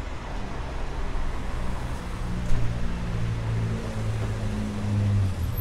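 A motor vehicle's engine running close by on a street, its hum growing louder toward the end and then dropping away. There is a single short knock about halfway through.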